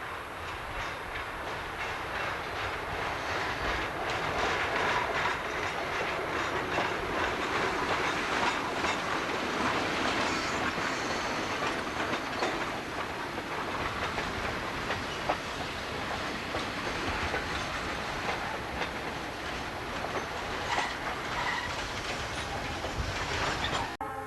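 Freight train hauled by an Alco S4 switcher rolling past, its wheels clicking over the rail joints. The sound grows over the first few seconds, holds steady, and cuts off abruptly near the end.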